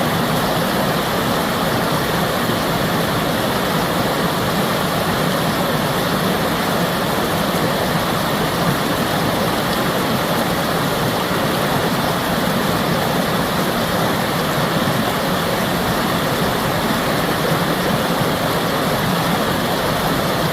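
Rushing water, a stream or waterfall, making a loud, steady hiss without pause.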